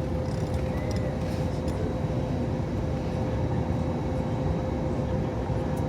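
Steady cabin noise inside an Airbus A321neo airliner: an even engine and airflow rumble with one steady mid-pitched hum running through it.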